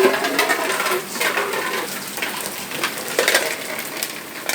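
Irregular sharp clattering knocks and splashes in the rain.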